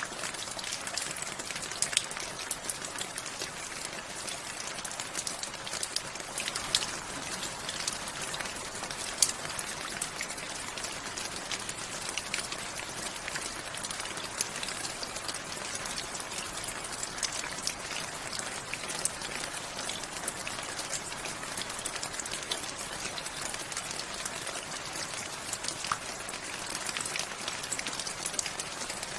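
Steady rainfall, with many individual drops ticking sharply close by.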